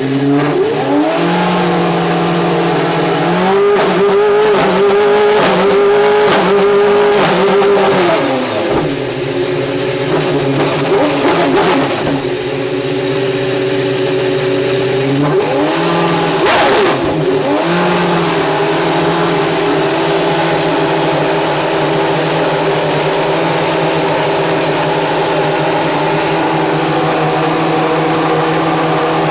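Race car engine at a hill climb revving: the note rises over the first few seconds and is held high, drops about 8 seconds in, rises again around 16 seconds, then holds a steady note to the end.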